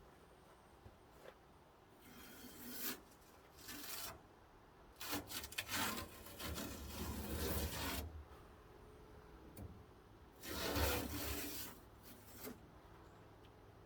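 Several bursts of rubbing, scraping noise, each from under a second to about three seconds long, the longest and loudest in the middle and one more about three-quarters through.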